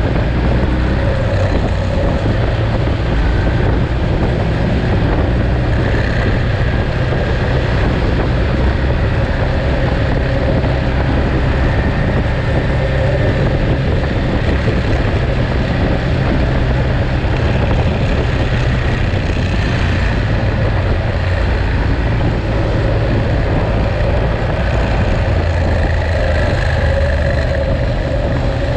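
Ducati Monster's V-twin engine running steadily under way, with wind rushing over the microphone.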